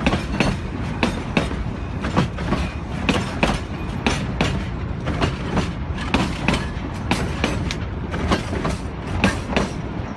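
Train running along the track: a steady rumble with a rapid, uneven run of wheel clacks over the rail joints.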